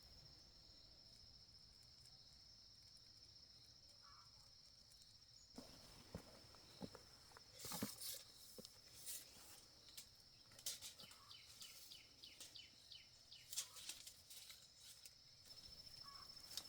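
Near silence: faint outdoor ambience with a steady high-pitched buzz, and scattered light taps and clicks from about halfway in.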